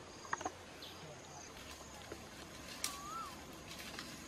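A bird calling over faint outdoor background: a short whistled note that rises and falls, about three seconds in. There are also a few sharp ticks and quick high chirps in the first second.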